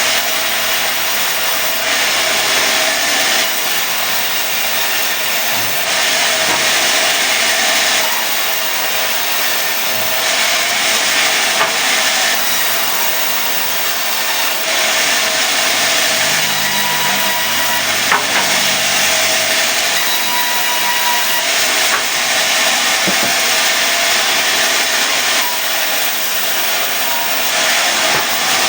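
Sawmill saw cutting a mahogany log into boards: a loud, continuous sawing noise that eases and swells slightly every few seconds.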